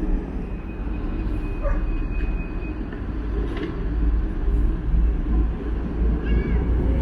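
Steady low rumble of a HADAG harbour ferry's diesel engine. A brief, faint high call rises above it about six seconds in.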